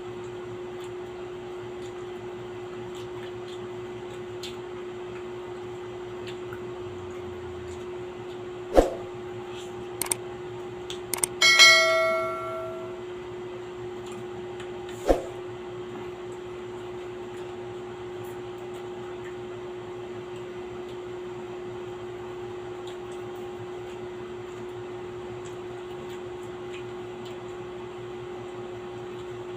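Steady hum with a few sharp clicks of dishware. About eleven and a half seconds in, a bright clink rings on for about a second.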